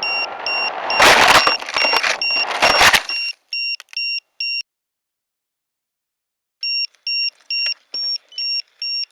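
Electronic warning beeper sounding a steady high beep about two to three times a second, with loud rushing noise over it from about one to three seconds in. The audio then cuts out completely for about two seconds before the beeping resumes.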